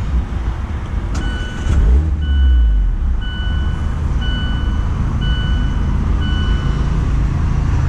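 Mazda MX-5 Miata's four-cylinder engine starting at the push of the start button: a click, then the engine catches about two seconds in with a brief rev flare and settles into a steady idle. A dashboard warning chime beeps about once a second through most of it.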